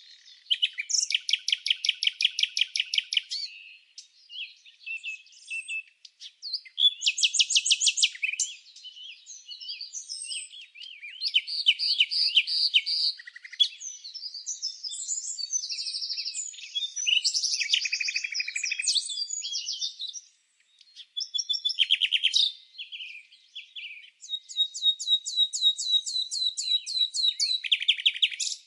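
Songbirds singing: phrases of fast, high trills and chirps, each two or three seconds long with short pauses between them, shifting between several different trill and chirp patterns.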